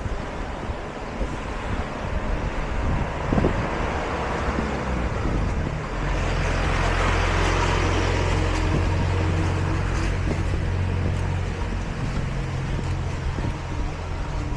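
A motor vehicle passes close by over a background of traffic noise. Its low engine hum swells about six seconds in and eases off a few seconds before the end.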